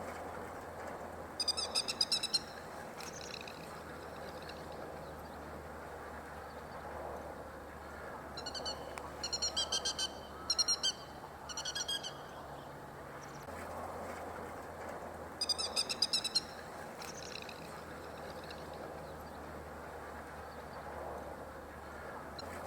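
Grey-headed lapwings calling: bursts of rapid, sharp, repeated notes. There are three bouts, about a second and a half in, a longer run around ten seconds, and again around sixteen seconds, over steady background noise.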